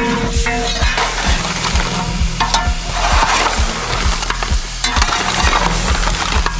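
Battered food deep-frying in hot oil, a dense, steady sizzle of bubbling oil. A steady beat of background music runs underneath.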